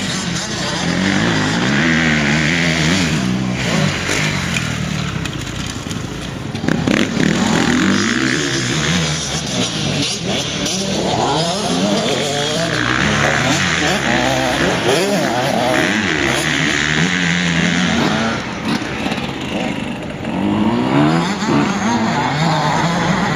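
Motocross motorcycle engine revving hard, its pitch climbing and dropping again and again as the bike accelerates, shifts and backs off around the track.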